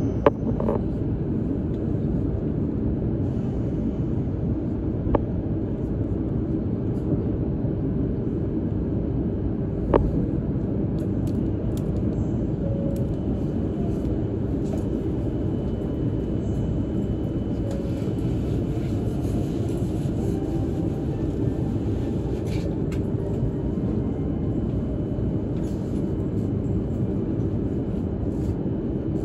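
Steady low rumble of a Hokuriku Shinkansen train running at speed, heard inside the passenger cabin. A few sharp clicks stand out, the loudest just after the start and about ten seconds in.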